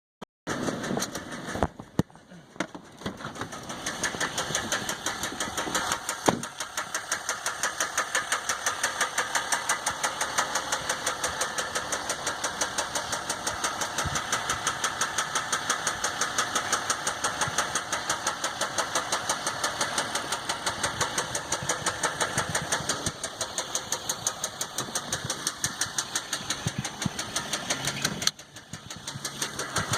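Ram EcoDiesel 3.0-litre V6 turbodiesel running with a fast, regular knock. The owner says the knock came on at only 18,000 miles, with the engine losing power and shaking hard.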